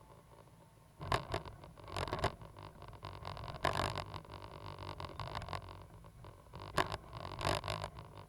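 Cat 320GC excavator's diesel engine running steadily, with short scraping bursts several times over it.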